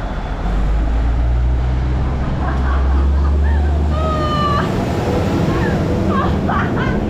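Low steady engine drone of a diesel railcar, starting about half a second in and cutting off about four and a half seconds in, with a brief high tone at the moment it stops. Voices are heard near the end.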